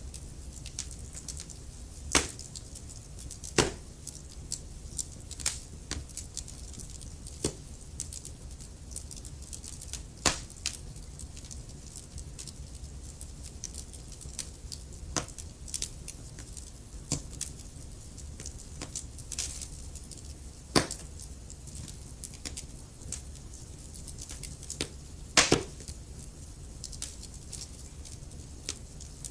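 Burning wood logs crackling, with irregular sharp pops over a steady low rumble of the fire; the loudest pops come about 2, 3.5, 10, 21 and 25 seconds in.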